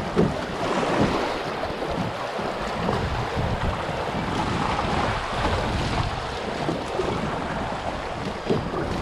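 Wind buffeting the microphone, rumbling in gusts, over water moving around a kayak, with a few soft thumps.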